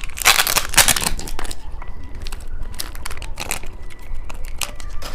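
Plastic candy wrapper crinkling as it is handled, dense for about the first second and a half, then sparser crackles.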